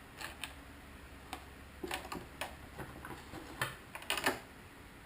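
Fingernails picking and scratching at the edge of the protective film on a painted clear Lexan RC car body, making irregular clicks and crackles of thin plastic, busier and louder in the second half.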